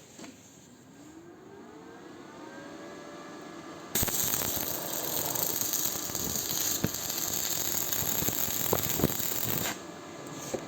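Electric angle grinder spinning up with a rising whine, then about six seconds of loud, harsh grinding against metal that stops sharply near the end.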